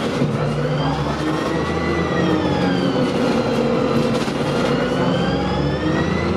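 Dennis Dart single-decker bus running, with a low engine rumble under a whine that rises, falls away around the middle and rises again as the bus speeds up and slows.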